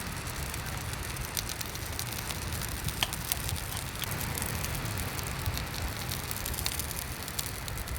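Hot oil sizzling with battered rockfish pieces deep-frying: a steady hiss full of fine crackles and the odd sharper pop, over a low rumble.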